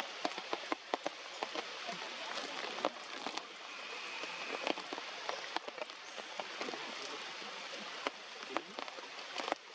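Heavy rain falling steadily, with many sharp ticks of drops hitting nearby surfaces.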